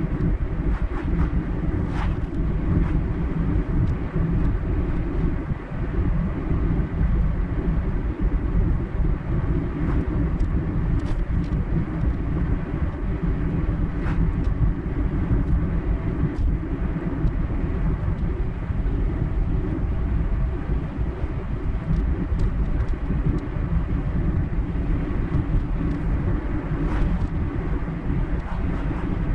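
Steady road noise of a car driving along: low rumble from tyres and engine, with a few faint ticks.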